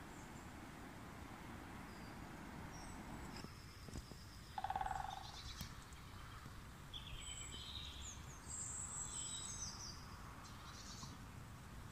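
Woodland birds singing: scattered high chirps and short trills, with one louder, lower rattling call about five seconds in. A low rumble underlies the first few seconds.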